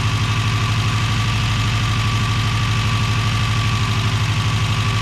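Subaru BRAT's newly swapped-in engine idling steadily with an even, regular pulse. It runs smoothly, with no knocking or rattle, a sign that the engine is healthy.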